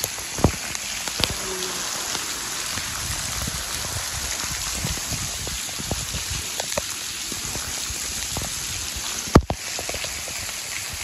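Heavy rain pouring down: a steady hiss with many close drips and splashes. One sharp click about nine seconds in.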